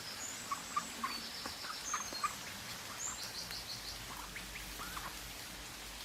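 Small birds chirping high, with a quick run of repeated notes about three seconds in and several short sharp ticks in the first half, over a steady background hiss.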